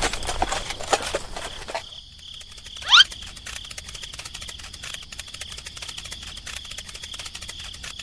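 Cricket chirping, a steady high trill, with a quick rising whistle about three seconds in, the loudest moment. In the first two seconds, before the chirping settles in, a rapid run of scratchy clicks.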